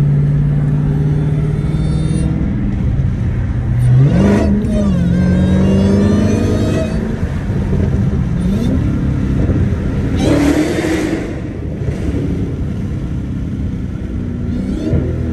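Supercharged 6.2-litre Hemi V8 of a Dodge Hellcat pulling hard, its note climbing steeply about four seconds in and dropping back, then rising and falling again as it shifts, with a high supercharger whine rising along with the revs. A brief rushing noise comes about ten seconds in.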